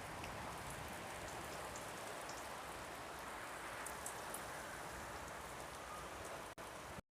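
Steady rain falling, a soft even hiss with scattered small drop ticks. It cuts off suddenly just before the end.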